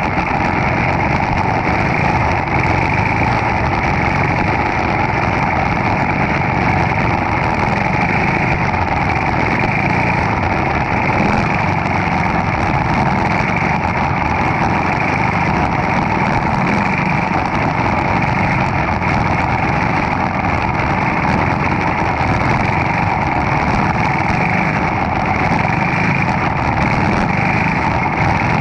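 Four-stroke Briggs & Stratton Animal kart engine running steadily at race speed, heard from an onboard GoPro.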